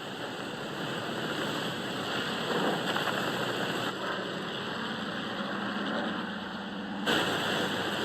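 Steady aircraft engine drone mixed with rushing wind, with an abrupt change in the sound about seven seconds in.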